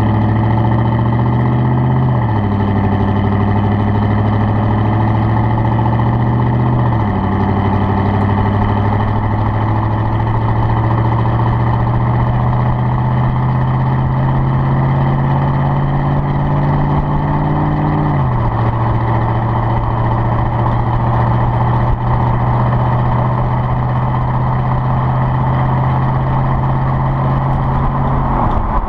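2009 Chevrolet Silverado 1500's 5.3 L V8 and exhaust under way: a steady engine drone that drops in pitch three times, about two, seven and eighteen seconds in, as the transmission upshifts. Road noise runs underneath.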